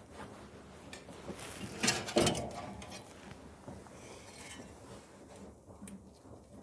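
Handling noise from taking apart a dryer's blower housing: scattered clicks and scraping of parts, with one louder clatter about two seconds in.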